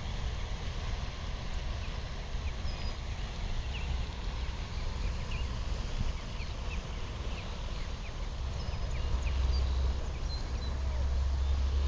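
Goslings peeping, many short thin chirps scattered throughout, over a steady low rumble that grows louder in the last few seconds.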